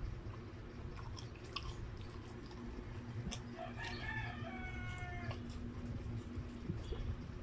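Close-up chewing of a mouthful of rice, with small wet clicks. A rooster crows once in the background about halfway through, for about a second and a half, over a steady low hum.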